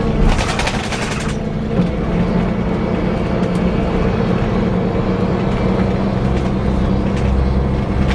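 Scania K340 coach's diesel engine and driveline running steadily with a constant whirring noise. A rapid rattle comes through for about the first second.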